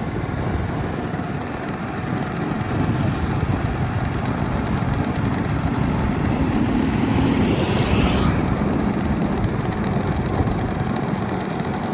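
Steady vehicle engine and road rumble, with a brief rising whoosh about seven to eight seconds in.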